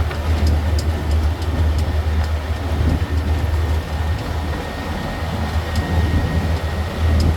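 A city tour train on the move, heard from aboard: a steady low drone with running noise and faint, scattered light rattles.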